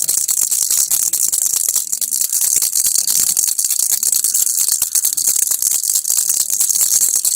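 Baby rattle (kilukki) shaken continuously, a dense, fast, unbroken rattling that is mostly high-pitched.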